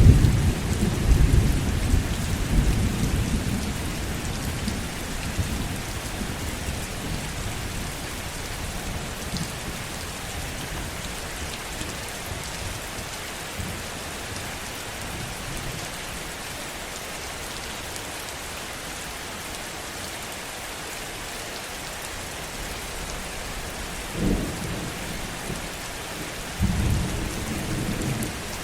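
Heavy rain falling steadily, with low thunder rumbles: one dies away over the first few seconds, and two more roll in near the end.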